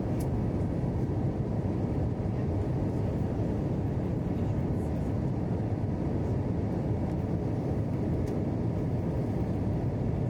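Steady low rush of Airbus A321 cabin noise in flight, engine and airflow, with a few faint clicks.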